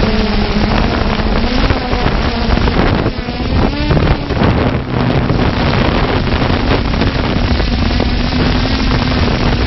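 Multirotor drone's motors and propellers humming steadily, with wind buffeting the microphone.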